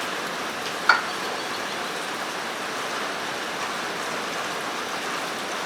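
Steady background hiss, with one short metallic clink about a second in.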